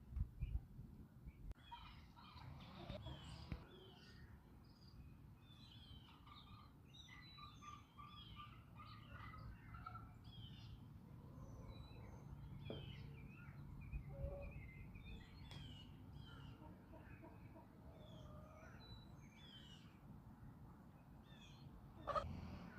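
Faint backyard ambience: many small birds chirping throughout, with occasional chicken sounds over a steady low rumble.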